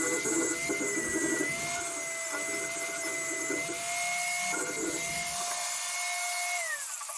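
A handheld power tool's electric motor running at a steady whine, with rough working noise that comes and goes, then winding down as the trigger is released near the end.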